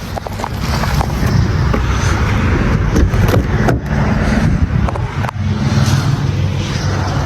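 A motor vehicle engine running steadily with a low hum, and a few sharp clicks about three seconds in and again a little after five seconds.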